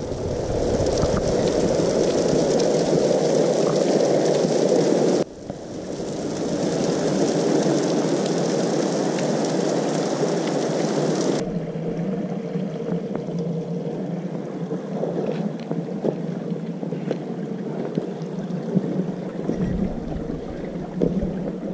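Heavy thunderstorm rain pouring onto slickrock, with runoff splashing and rain hitting the camera. The sound breaks off suddenly about five seconds in and resumes. After about eleven seconds it gives way to a quieter, duller rush.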